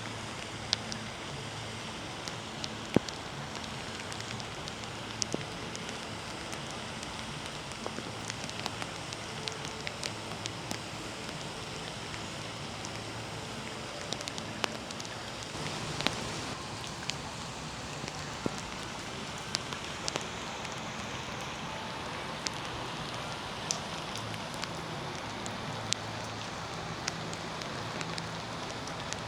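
Steady rain falling, with many scattered sharp drip and raindrop hits close by.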